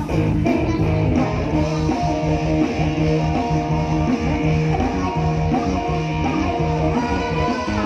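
Live band playing an instrumental passage, guitar to the fore over a steady, repeating bass line.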